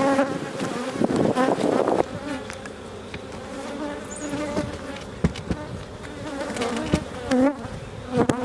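A cloud of honey bees buzzing close around the microphone, their tones wavering and gliding up and down as individual bees fly past. A few sharp knocks come in the second half.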